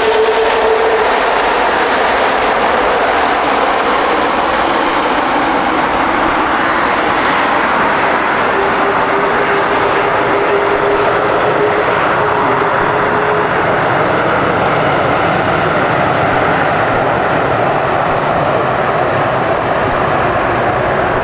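Jet airliner engines running loud and steady close by, with a faint steady whine near the start and again midway through.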